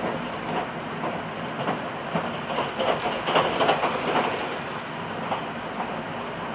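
Passenger train running, heard from inside the car: a steady rumble of wheels on rail with irregular clicks and knocks over the track, loudest about three to four seconds in.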